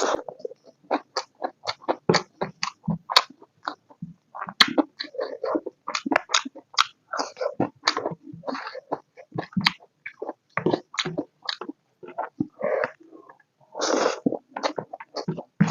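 Close-miked eating sounds: a person chewing pork and potato curry with open, wet smacking and clicking, several smacks a second, in an uneven rhythm.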